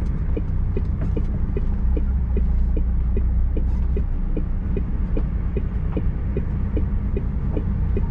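HGV diesel engine running low inside the lorry's cab, with a steady ticking about two to three times a second from the turn-signal indicator.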